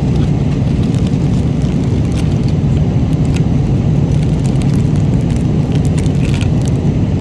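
Steady low drone of an airliner cabin in flight, with scattered small clicks and taps over it.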